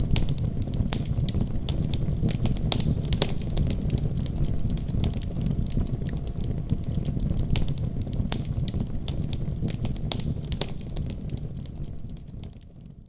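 Wood fire burning in a fireplace: irregular crackles and pops over a steady low rumble of the flames. The sound fades out near the end.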